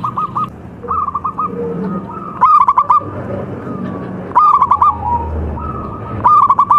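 Zebra dove (perkutut) singing: short phrases of quick, rolling coo notes, repeated about five times, one every couple of seconds.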